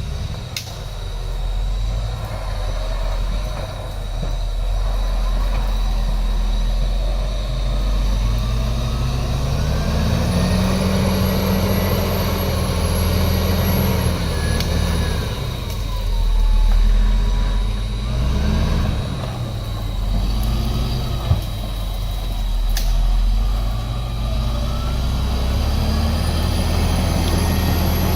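Heavy diesel engine of an earthmoving machine (bulldozer or excavator) working under load, its note rising and falling several times as it revs up and eases off. A steady high whine runs underneath, and there is one sharp knock a little past the middle.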